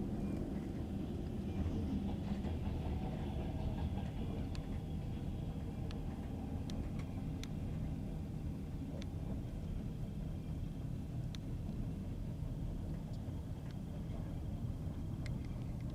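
Passenger train running on jointed rail track: a steady low rumble of wheels and carriage, with scattered sharp clicks at irregular intervals.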